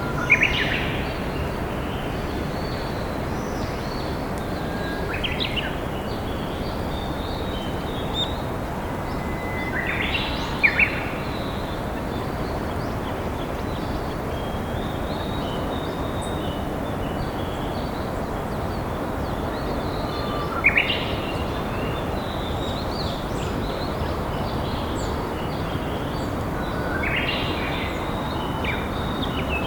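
A Japanese bush warbler singing its hō-hokekyo song five times, each a held whistle followed by a quick flourish, over the steady rush of a flowing river. Fainter chirping of other birds runs in between.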